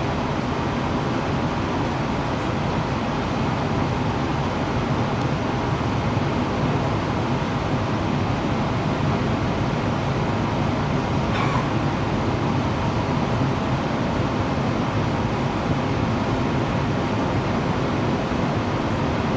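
JR Hokkaido 737 series electric train running at speed, a steady rumble of wheels and running gear on the rail with a faint steady whine. A short hiss breaks in about halfway through.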